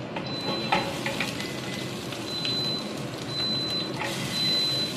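Sliced aromatics frying in oil in a nonstick pan: a steady sizzle with a few knocks of a wooden spatula. The sizzle swells briefly near the end as carrot sticks are dropped in.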